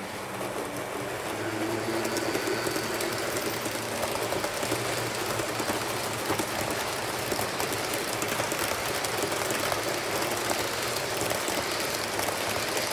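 HO scale model train running on the track: the Lima E 10 model locomotive's motor hums and the wheels click rapidly over the rails. It gets louder about a second in, then runs steadily.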